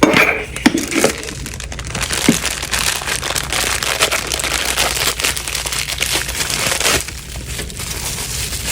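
Packaging of a Funko Soda being torn open and handled: a run of crinkling, crackling and rustling with small clicks, easing off about seven seconds in.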